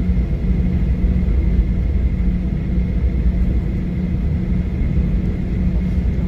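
Steady cabin noise of a Boeing 737-900ER with its CFM56 engines running: a constant low rumble with a steady hum, not rising.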